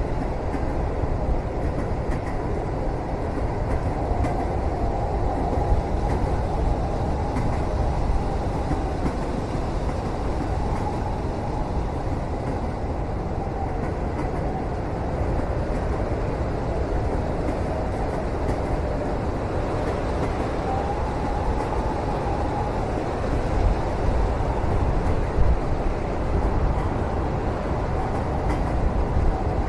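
Steady low rumble of a moving train heard from inside a carriage, with a faint wavering whine that comes and goes and a few light knocks.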